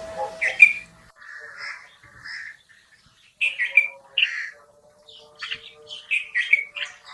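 Red-vented bulbul calling: short, bright chirps in quick clusters of a few notes, with gaps between the clusters. There is a brief rush of noise at the very start.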